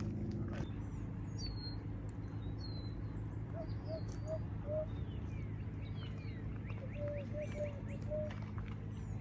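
Wild birds calling: scattered high chirps and quick slurred whistles, with two short runs of low, evenly spaced hooting notes, over a steady low rumble.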